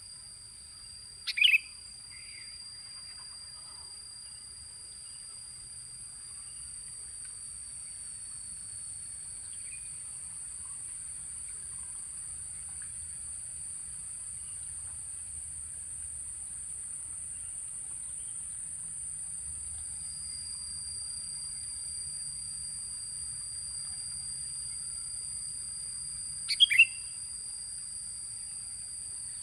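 A steady, high-pitched insect drone runs throughout and slowly grows louder. Two short, loud sooty-headed bulbul (kutilang) calls break over it, one about a second and a half in and one near the end.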